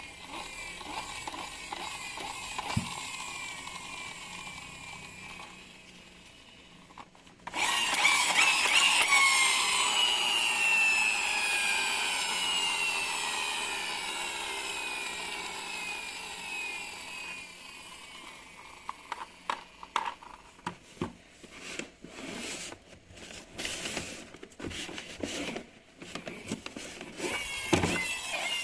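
Toy RC car's small electric motor and gears whining, jumping much louder about seven seconds in and then slowly falling in pitch. Later, a run of irregular knocks and clatters.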